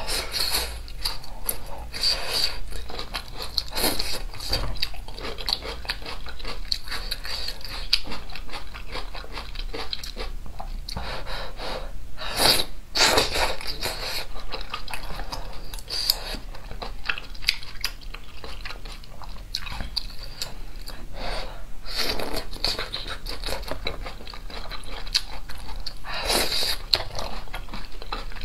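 Close-miked chewing and biting of spicy hot pot food, a continuous mouth-eating texture with a few louder moments.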